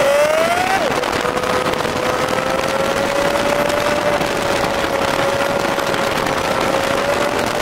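Dune buggy's air-cooled Volkswagen flat-four engine pulling up in pitch, then dropping sharply under a second in as it shifts up, and running at a steady pitch after that. Heavy wind and road noise fill the open cab.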